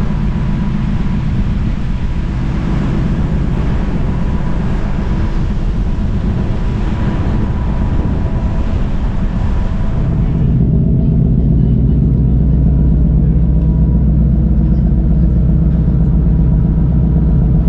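Steady low engine rumble aboard a small car ferry under way, with wind hiss over it. About ten and a half seconds in the hiss stops abruptly and the rumble becomes louder.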